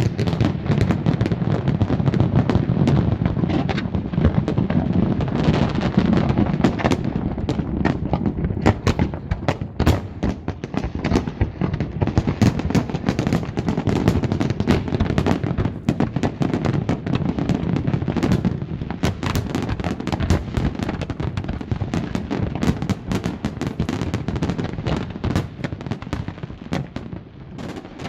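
Fireworks display going off in rapid, continuous succession: a dense run of sharp bangs and crackling reports over a deep rumble, easing a little near the end.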